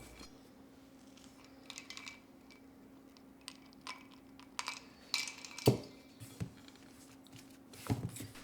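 Kitchen things being handled: scattered light clinks and knocks, with a louder thump a little past halfway and another near the end, over a faint steady hum.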